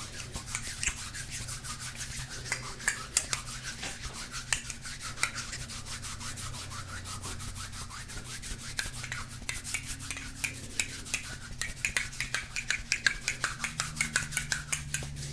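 Rapid scratching and tapping on a golden crystal stone: a dense, irregular run of small crisp clicks and scrapes that grows busier in the last few seconds.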